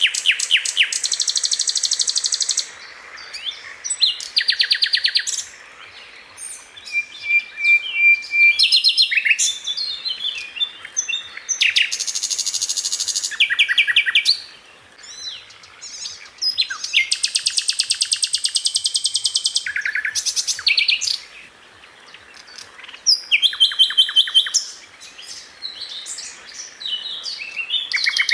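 Sikatan Londo flycatcher singing: bursts of very fast, high-pitched trills, each a second or two long with short pauses between, mixed with quicker chips and a brief whistled note.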